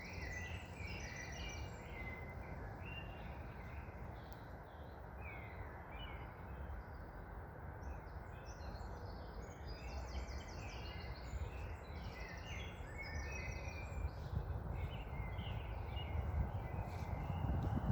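Several songbirds chirping and trilling over a steady low rumble of wind, which grows louder near the end.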